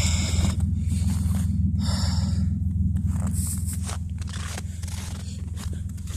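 Car engine idling steadily with a low hum, freshly cold-started in sub-zero weather. Scraping footsteps sound over it near the start and about two seconds in, and the engine grows gradually quieter through the second half.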